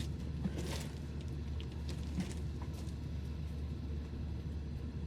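Steady low hum of a car idling, with a few faint clicks.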